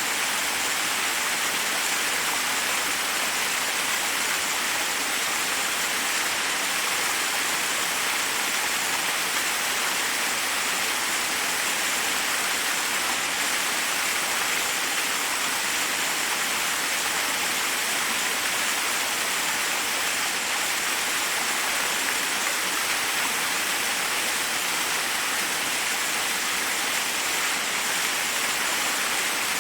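Waterfall: water falling steadily onto rocks, an unbroken hiss and rush that is brightest in the high register.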